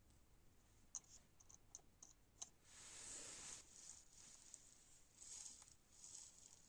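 Near silence with a few faint light clicks and two soft rustles, one about three seconds in and one about five seconds in.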